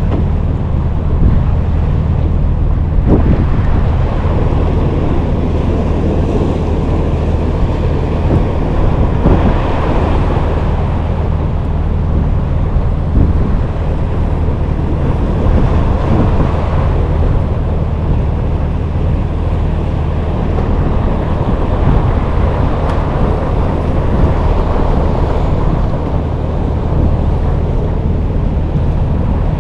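Wind buffeting the microphone and water washing around a small fishing boat, over a steady low hum.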